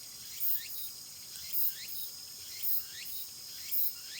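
Crickets and other insects calling in a steady chorus, with one short rising call repeating about once a second.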